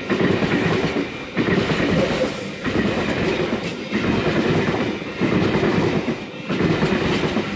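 Eight-car V set electric double-deck train passing through the station, its wheels rumbling and clacking on the rails. The noise dips briefly in a regular rhythm about every second and a quarter.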